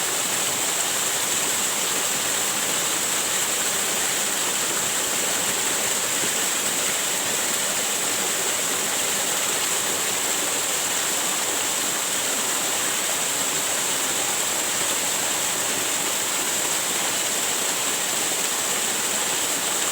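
Waterfall: a steady, unbroken rush of falling water, an even hiss strongest in the high treble.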